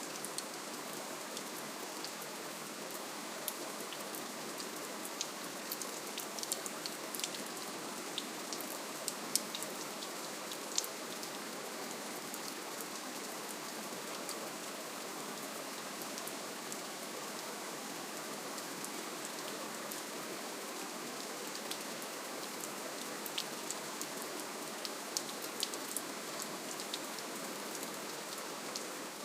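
Steady, soft rainfall: an even hiss with scattered sharp drop ticks, a little busier in the first ten seconds and again near the end.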